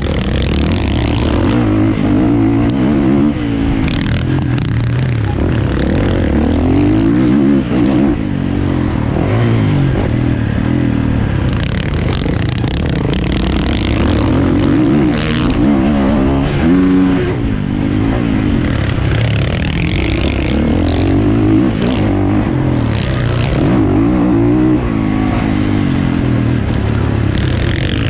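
450cc motocross bike engine revving hard under racing load, its pitch rising and falling constantly as the rider shifts and works the throttle through the track.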